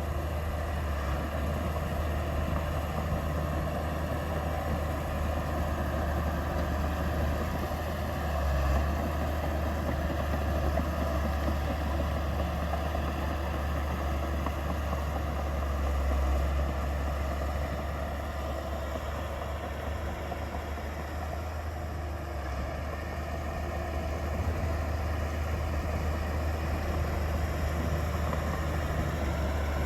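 Heavy diesel engine of earthmoving machinery running steadily with a deep low rumble, swelling briefly a couple of times and easing off for a few seconds past the middle.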